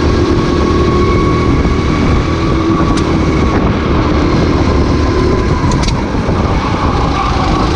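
Racing kart engine running at high revs, its pitch holding steady and then easing slowly lower near the end as the kart comes off the throttle.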